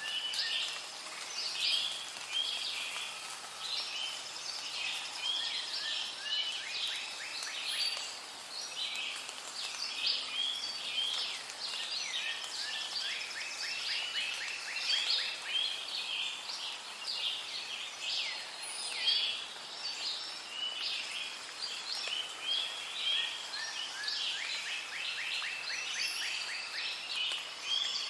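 Rainforest ambience: a dense chorus of many birds chirping and calling over one another, with rapid trills now and then.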